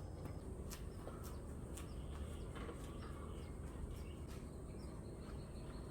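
Outdoor ambience: a steady high-pitched insect drone with scattered short bird chirps and ticks over a low background rumble.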